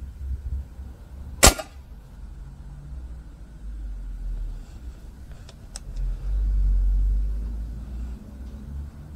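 A single sharp shot from a Snowpeak P35X air rifle firing a heavy hollow-point slug, about a second and a half in. Two light clicks follow around five and a half seconds in, then a low rumble.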